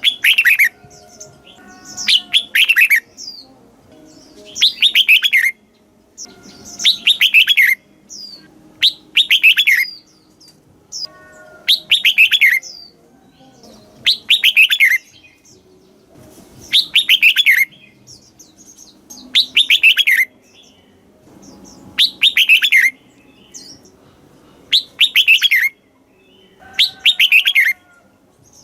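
Red-whiskered bulbul singing: a short, loud phrase of bright notes sliding down in pitch, repeated about every two and a half seconds, with brief quieter chips in between.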